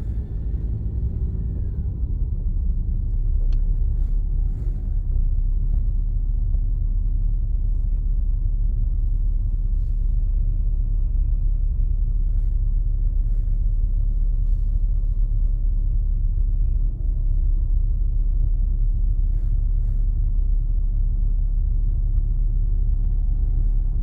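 Car driving along: the steady low rumble of engine and road noise heard from inside the car, with a faint tone that drifts slowly in pitch.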